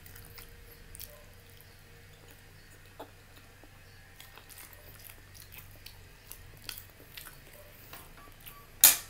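Close-up chewing of a mouthful of meatloaf and pancit canton noodles, with small wet mouth clicks scattered throughout. Near the end comes one sharp, much louder clink of a metal fork against the plate.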